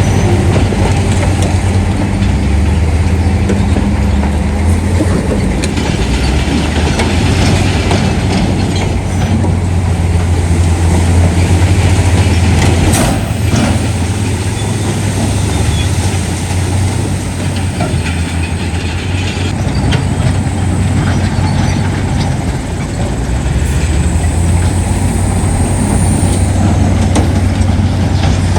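Heavy diesel construction machinery running with a steady low engine drone and a few sharp metallic clanks, one near the middle.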